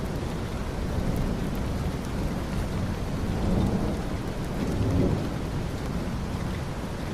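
Steady rain falling, with low rolling thunder rumbling underneath that swells twice in the middle.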